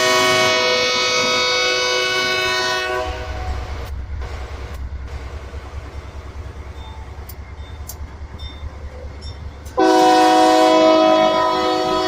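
Train locomotive's air horn sounding a long chord blast, then a low, pulsing engine rumble with rail noise, then a second long horn blast starting near the end.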